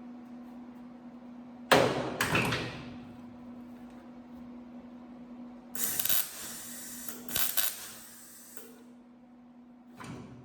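MIG welder running short bursts of tack welds on 20-gauge sheet steel with .035 wire, a wire size heavier than the welder's operator wants for metal this thin. There is a sudden crackling burst about two seconds in, a longer crackling stretch in the middle, and a brief one near the end, over a steady low hum.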